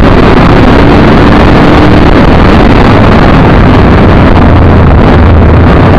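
The 7.0-litre LS7 V8 of a TVR Tuscan running at speed, buried in heavy wind and tyre noise, with the recording pinned at full level. About four seconds in the engine note falls to a low drone.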